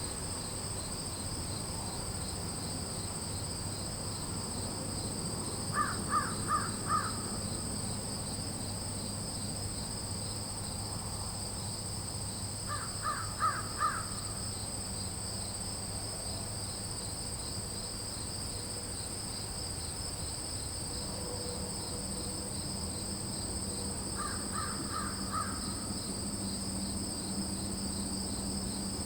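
A crow cawing in short runs of about four caws, three times, over a steady high-pitched chorus of insects such as crickets.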